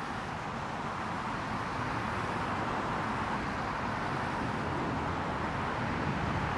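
Jet engine noise of a Boeing 787-9 airliner on approach: a steady rushing roar that grows slowly louder as the aircraft comes nearer.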